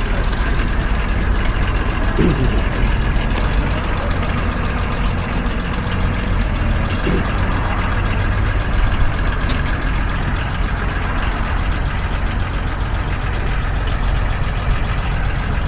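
A vehicle engine running steadily at idle, with a continuous low rumble.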